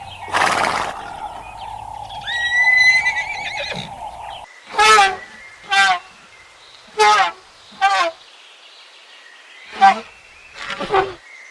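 Animal calls: a short rising call over a steady hum, then, after an abrupt change about four and a half seconds in, a series of about six short, wavering calls roughly a second apart.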